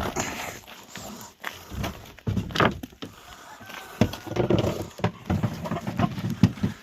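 Chickens moving about in a coop: irregular knocks, thumps and scrabbling as the birds step, scratch and flap.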